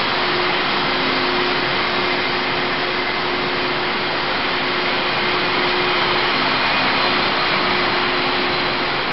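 Taiwan Railways parcel train coaches rolling past along a station platform: a loud, steady rush of wheel-on-rail running noise with a faint hum under it.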